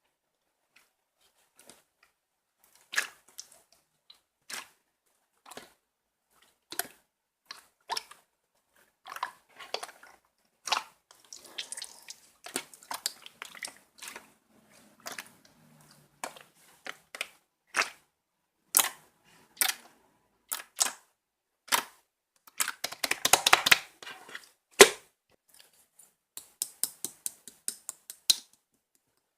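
Slime being pressed and poked, giving sharp popping clicks from trapped air. The pops come one at a time at first, then thicken into a dense crackle and a quick run of pops near the end.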